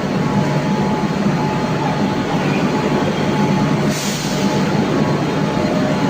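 Metro train running, a steady loud rumble with a brief hiss about four seconds in.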